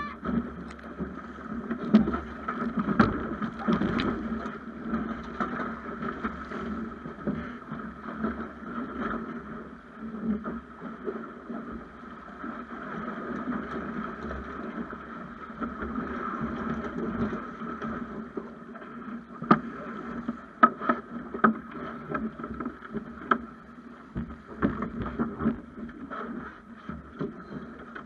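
Snipe sailing dinghy under way: water rushing and splashing along the hull, with wind on the microphone and scattered sharp knocks.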